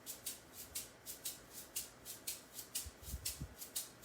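Hand shaker played in a swung shuffle beat, a steady run of short shakes at about four a second.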